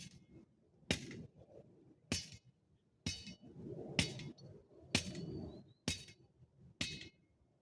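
A metal hand tool striking hard, evenly, about once a second, some blows leaving a short metallic ring.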